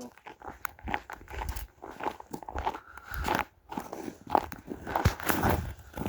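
Footsteps crunching over frozen ground, an irregular series of crunches with soft thuds about one to two a second.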